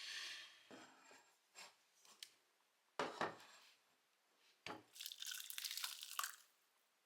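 Plastic food packaging being torn open and crinkled by hand: a tearing rip at the start, a few sharp snaps, then about a second of dense crinkling near the end.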